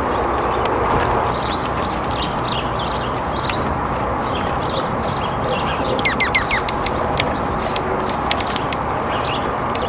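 Small birds chirping in short, high notes over a steady background hiss, with a quick run of several falling call notes about six seconds in.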